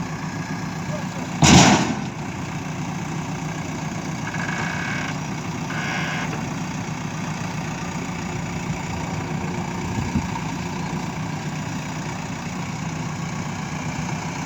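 Diesel engine of heavy equipment idling steadily. About a second and a half in there is a single loud clank, and a few seconds later two short high tones.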